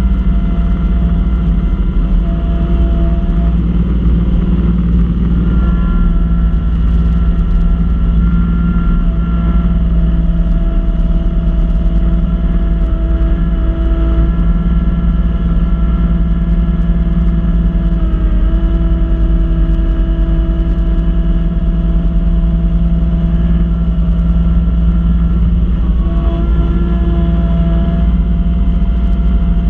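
Kubota B2650 compact tractor's three-cylinder diesel engine running steadily under load while driving a front-mount Kubota B2782 snow blower. A higher whine rises and fades several times over the steady engine hum.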